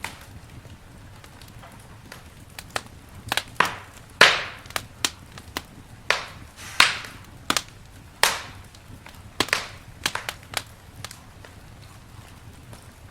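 Campfire crackling, with burning wood giving sharp snaps and pops: faint ticks at first, then a run of loud pops from about three seconds in that thins out again near the end.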